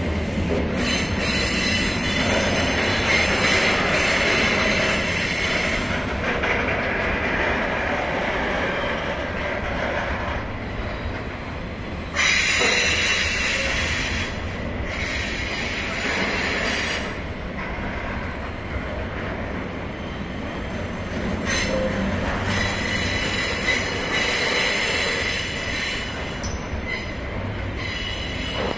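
Loaded container wagons of a freight train rolling past on a curve. The wheels rumble on the rails, and a high-pitched wheel squeal comes and goes in long stretches, with a jump in loudness about 12 seconds in.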